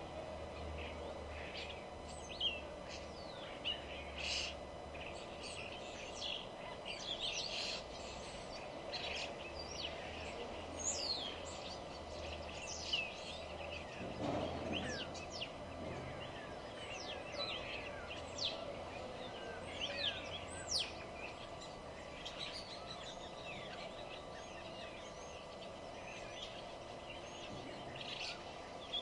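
Several wild birds chirping and calling, a dense scatter of short, sharp notes, many sweeping down in pitch, over a steady background hum. A brief swell of lower noise comes about halfway through.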